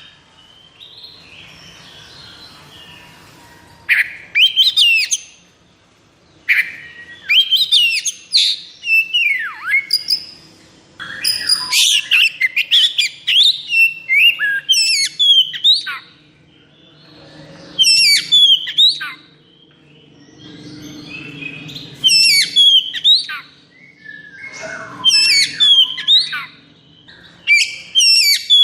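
Oriental magpie-robin (kacer) singing in the fast, aggressive 'konslet' fighting style: loud bursts of quick whistled notes that sweep steeply up and down, repeated every two or three seconds with short pauses between them.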